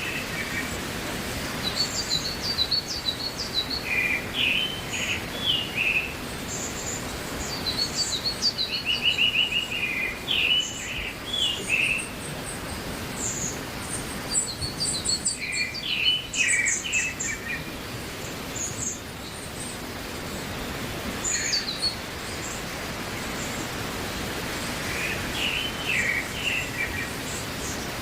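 Small birds chirping and singing in short phrases and quick trills at several pitches, recurring every second or two, over a steady background hiss.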